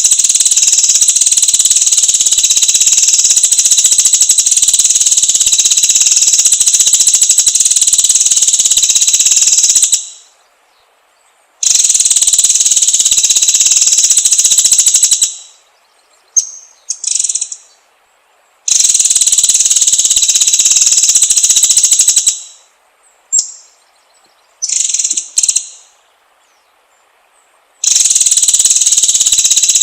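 Loud, steady, high-pitched buzzing in long bursts of about 4 to 10 seconds, broken by short silences, with a few brief high bird calls in the gaps: a forest chorus of insects and birds.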